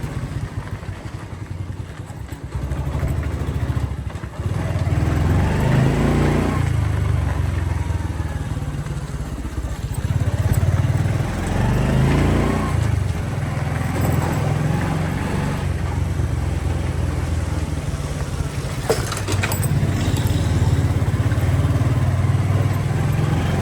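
Motorcycle engine running while riding along, its pitch rising twice, about five and twelve seconds in. A sharp click comes a little after three-quarters of the way through.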